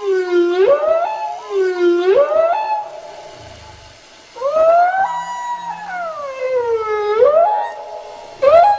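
Recorded whale song: loud, pitched moaning calls that swoop down and back up. There are two short calls, then a long call that sinks slowly and rises again, and a short call near the end.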